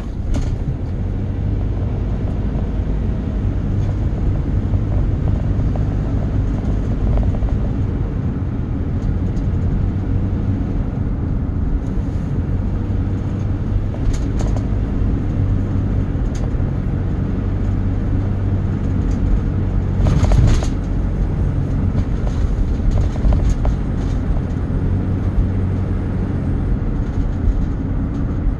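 A vehicle running: a steady low engine rumble with a few short rattles, the loudest about twenty seconds in.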